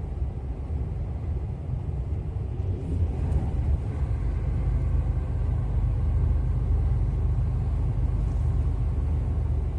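Steady low rumble of a truck's engine and tyres heard from inside the cab while driving along a road.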